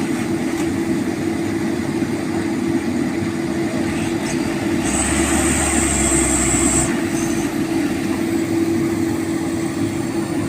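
Heavy diesel machinery of an excavator working sand, running steadily with a constant low drone; from about five to seven seconds in a high whine and deeper rumble join it.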